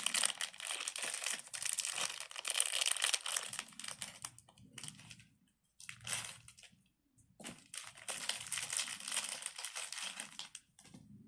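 Crinkling and rustling of something being handled, in three stretches with short pauses between them.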